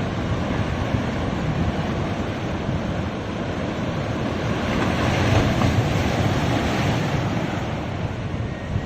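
Ocean surf washing continuously onto a beach, with wind rumbling on the microphone; the wash swells a little about halfway through.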